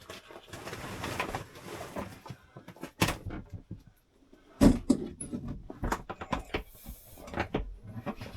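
Rustling and handling noises inside a sailboat's cabin as lockers and panels are opened and moved: a sharp knock about three seconds in, a louder thump just under five seconds in, then a run of small knocks and clicks.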